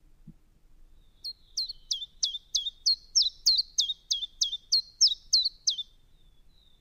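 Common chiffchaff singing: a run of about thirteen short, sharp notes, each falling in pitch, repeated at roughly three a second for about four and a half seconds. A faint, thin high note sounds before and after the song.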